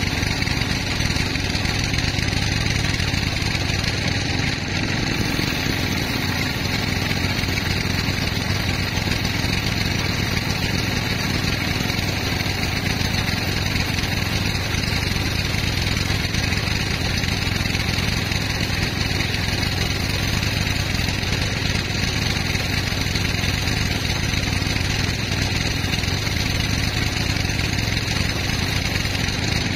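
Sawmill machinery running steadily, an even engine-like drone with no breaks or changes.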